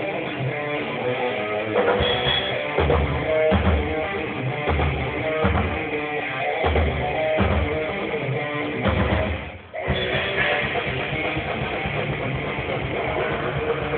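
Rock band playing live, with electric guitar and bass guitar over a pulsing low beat. The music drops out for a moment just before ten seconds in, then picks up again.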